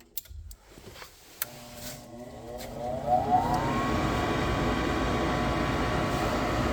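Gas furnace's draft inducer motor starting up: a few clicks, then a whine rising in pitch over about two seconds that settles into a steady hum with fan rush, the first stage of the furnace's ignition sequence.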